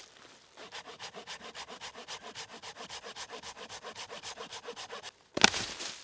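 Rapid, even scraping or rubbing strokes, about nine a second, which stop near the end and are followed by a brief louder rustling burst.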